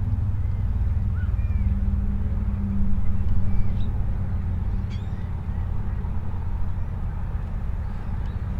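Boat motor idling with a steady low hum, while birds chirp faintly now and then.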